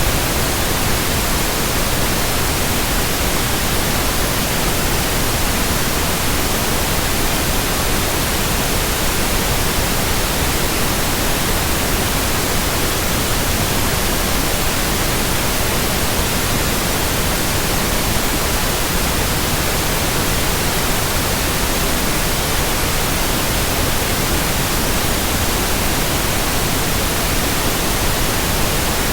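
Steady white noise: an even, unchanging hiss with no tones or rhythm.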